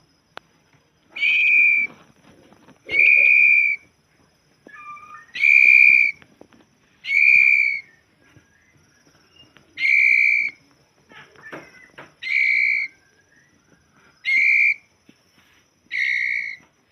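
White-rumped shama whistling one clear note over and over, eight times, each note under a second long and about two seconds apart, with soft short calls in the gaps.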